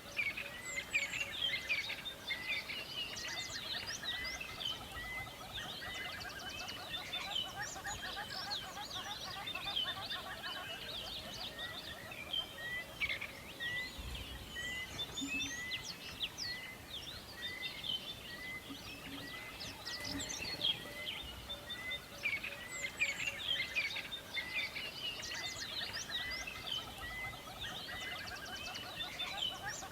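A chorus of many songbirds chirping and trilling at once. One bird repeats a short note steadily, about three times every two seconds.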